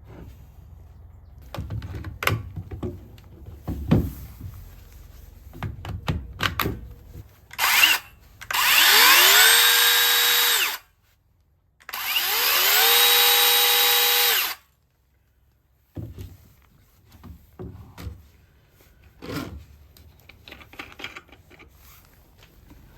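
Cordless power saw's electric motor triggered in two runs of about two and a half seconds each: each spins up quickly to a steady whine and then cuts off. Before the runs there is a brief blip of the motor and some knocking and clatter of handling, and more knocks follow.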